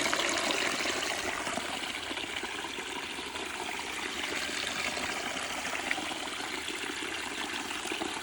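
Running water trickling and flowing steadily, a little louder at the start.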